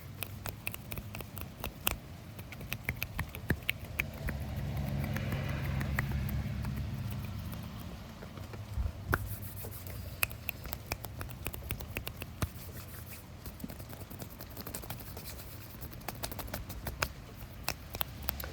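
Close-miked ASMR hand sounds: fingers scratching and tapping, making many small crisp clicks and scratches. A low rumble swells and fades about four to eight seconds in.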